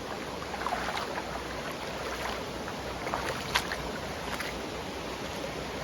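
Creek water flowing over rocks, a steady wash of noise with a few short sharp ticks scattered through it.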